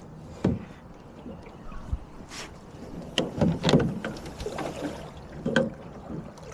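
Knocks and thumps on a small boat, several in a cluster about three to four seconds in and single ones near the start and near the end, with a short rushing noise about two and a half seconds in, while a large alligator is being handled alongside.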